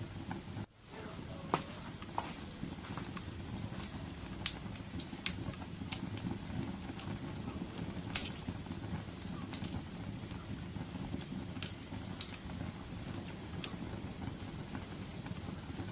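Wood fire burning with a steady low rumble and sharp crackles and pops every second or so. The sound cuts out briefly less than a second in.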